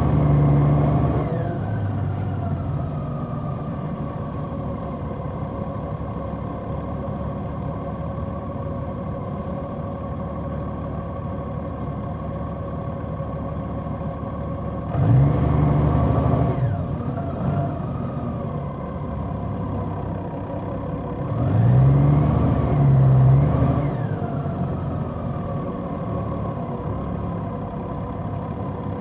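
Large motorcycle engine running on the road at a steady pace, with rising revs as it accelerates at the start, about halfway through, and twice in quick succession a little later.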